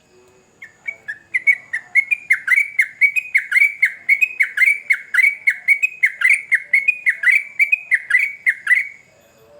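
Yellow-vented bulbul (trucukan) singing a long, fast run of bubbling whistled notes, about four a second. The run starts under a second in and breaks off near the end: the continuous 'ropel' song prized in a male in good voice.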